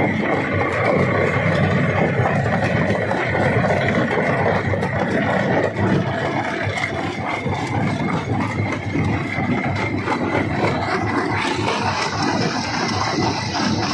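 Jaw rock crusher running steadily, with a dense rattle of many small knocks as stone is broken.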